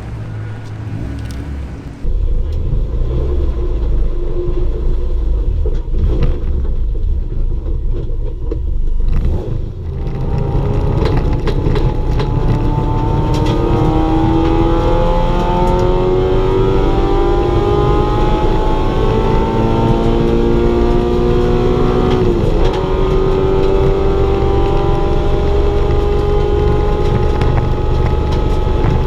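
Acura Integra's four-cylinder engine pulling hard under throttle on track, over a heavy low rumble. About ten seconds in, the revs begin climbing steadily and drop back several times as it shifts up through the gears.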